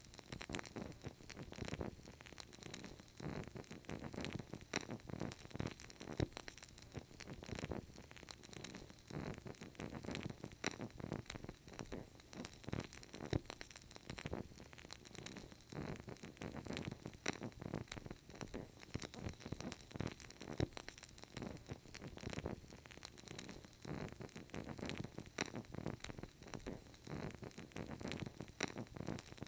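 Burning candle crackling: a continuous stream of small, irregular pops and ticks from the flame and wick.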